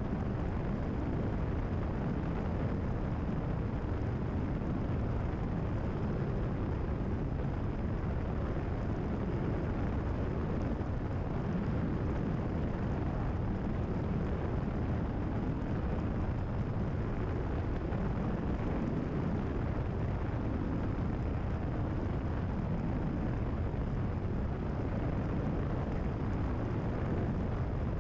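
Cessna 172RG's four-cylinder Lycoming engine and propeller droning steadily in level cruise, heard from inside the cockpit.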